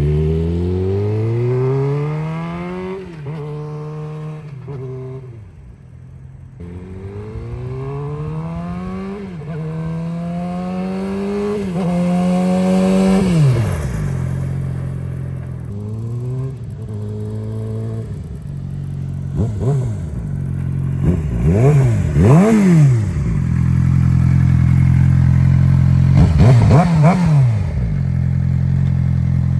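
A 2019 Suzuki GSX-R600's inline-four engine, fitted with an M4 GP slip-on exhaust over the stock mid-pipe and catalytic converter, accelerates hard. Its pitch climbs and breaks off at each gear change, then falls away. Afterwards it idles steadily, with several quick throttle blips.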